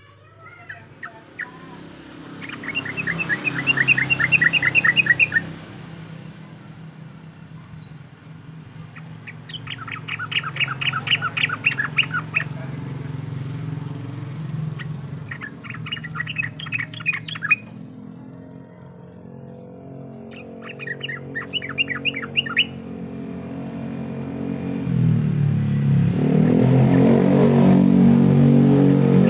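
Sooty-headed bulbul (trucukan) singing in repeated bouts of fast, rapid-fire chattering notes, each bout lasting two or three seconds, used as a lure song to prompt caged birds to sing. A steady low drone runs underneath and grows louder near the end.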